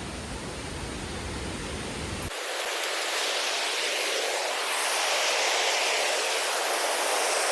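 Alsea Falls roaring at a high winter flow, a steady rushing noise. About two seconds in, the low rumble cuts out abruptly and the rush grows louder toward the end.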